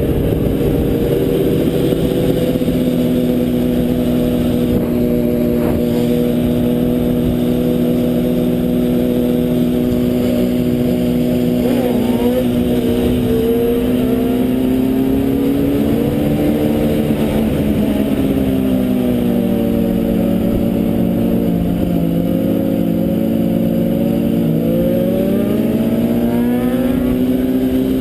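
Motorcycle engine running at steady cruising revs, its pitch rising and easing back a few times, with a constant rushing noise beneath it.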